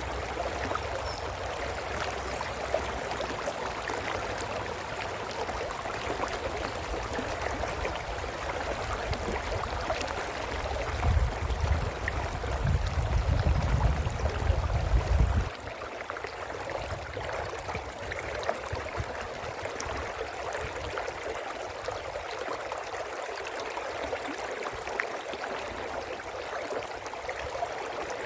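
A brook flowing, a steady rushing babble of water. Partway through, a low rumble builds for a few seconds and then stops abruptly.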